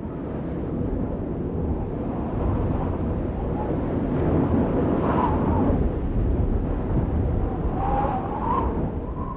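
Steady low rumble of a hall full of people after the music stops, with the faint sound of voices from the crowd about halfway through and again near the end.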